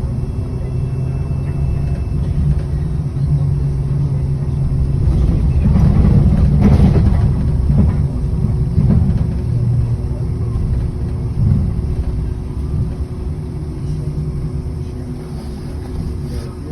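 City bus interior: steady engine and road rumble with a low hum, swelling louder through the middle and then easing off.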